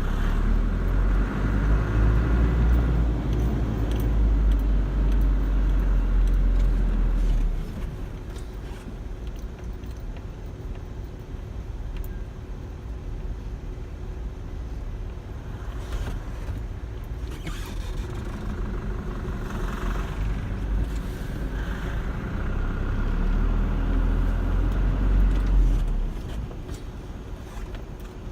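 Cars passing on the road close by: a loud low rumble for the first seven seconds or so that cuts off, a quieter stretch, then another car swelling past and fading near the end.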